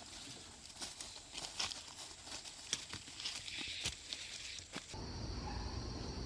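Irregular crackling and rustling, a rapid scatter of small sharp clicks like dry plant material being handled. After about five seconds it cuts to a steady outdoor hiss with a high, even, insect-like tone.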